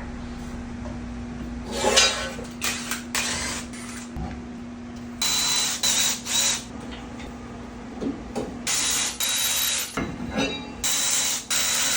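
Car with a bad wheel bearing: a steady low hum, and from about five seconds in, irregular harsh grinding bursts of about half a second to a second each.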